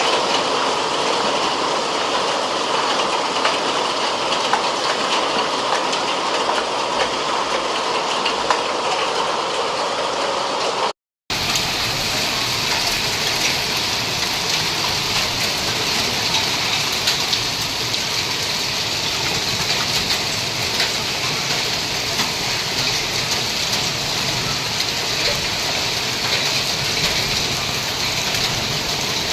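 Hail and rain pelting down: a steady hiss dotted with many small sharp ticks of hailstones striking. It breaks off for a moment about eleven seconds in.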